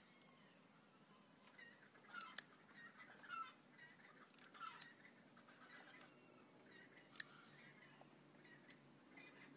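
Near silence: faint short bird chirps now and then, with a few light clicks.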